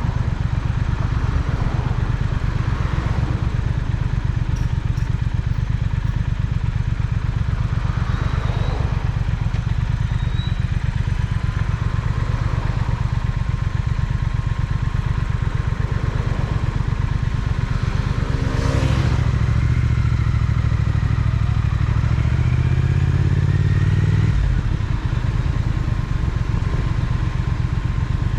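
Triumph Speed Twin's parallel-twin engine running under way. The revs climb for a few seconds about two-thirds of the way in, then drop off sharply.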